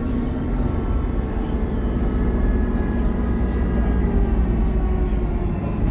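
Diesel engine of a Dennis Trident double-decker bus heard running while the bus is under way, a steady low drone with a whine on top that slowly falls in pitch.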